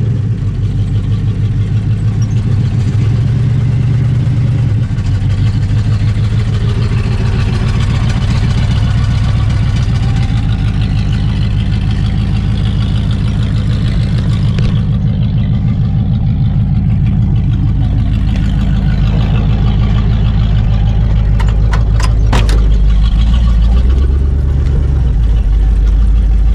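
Truck engine running steadily, with an abrupt change in tone about halfway through and a few sharp clicks near the end.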